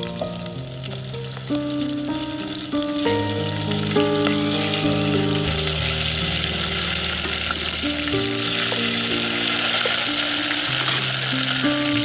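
Food sizzling as it fries in a hot pan. The hiss grows louder a few seconds in and stays steady, under background music of slow held chords.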